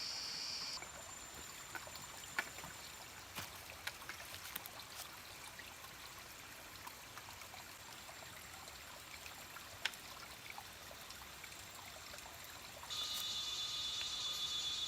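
Water trickling, with scattered sharp clicks and drips. A steady high-pitched insect buzz is there for the first second and cuts back in near the end.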